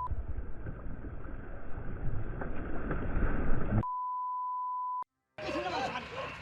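Rough wind and water noise on a small boat's camera microphone, then about four seconds in a steady, high censor beep lasting about a second. After a brief dropout, rising-and-falling pitched calls begin near the end.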